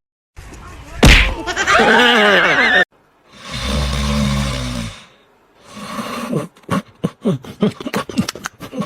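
Animal cries in separate short bursts: a sudden loud hit about a second in, followed by a wavering high call, then after a short gap a lower, steady drawn-out call, and near the end a run of short choppy cries.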